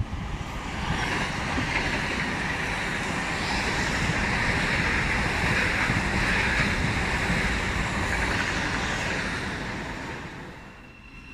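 An LNER Azuma high-speed train (Hitachi Class 800-series) passing through the station at speed, making a steady rush of wheels on rail and air. The rush swells about a second in, holds while the carriages go by, and fades away near the end.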